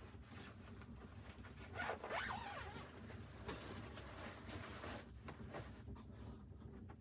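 A zipper being pulled in several rasping strokes, the loudest about two seconds in.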